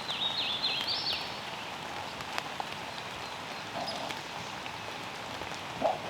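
Light rain falling steadily, with a songbird singing a quick run of high notes in the first second. A few sharp drop clicks and a short low sound near the end.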